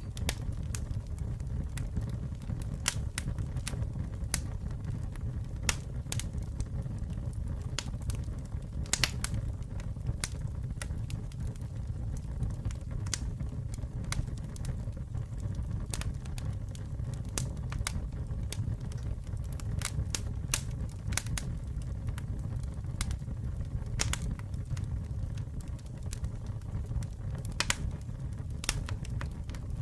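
Wood fire burning: sharp, irregular crackles and pops a few times a second over a steady low rumble of flames.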